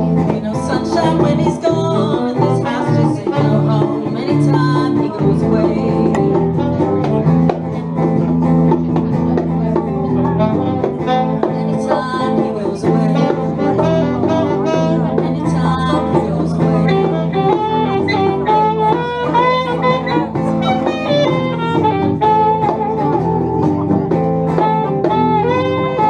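Saxophone and guitar duo playing: the saxophone carries the melody over guitar accompaniment.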